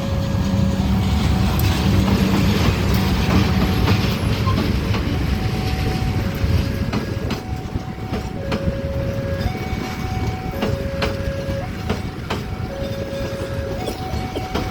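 A train running by with a low rumble and clicks of wheels over rail joints, loudest in the first few seconds and then easing. Over it, a two-tone electronic alarm alternates steadily between a lower and a higher note, about one note a second.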